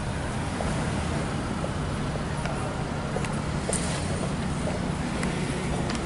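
Steady car engine and road noise, a low hum heard from inside the car, with a few faint clicks.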